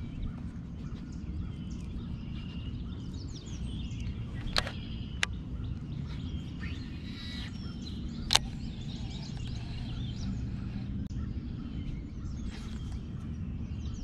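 Birds chirping faintly over a steady low rumble. Three sharp clicks stand out: two close together about four and a half seconds in, and a third near eight seconds.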